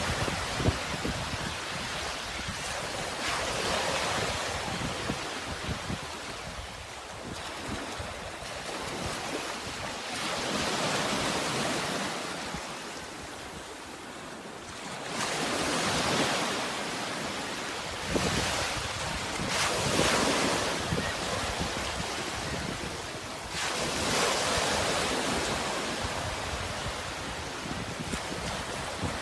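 Sea waves washing ashore, the surf swelling and fading every few seconds.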